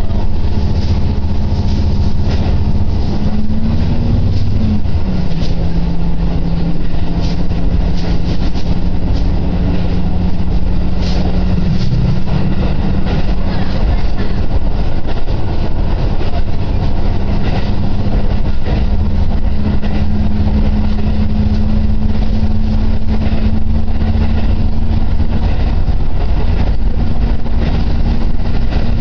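Cabin sound of a diesel railcar running along the line: a loud steady rumble with the engine's drone. The drone rises briefly then drops a few seconds in, dips again later, and settles back to a steady note.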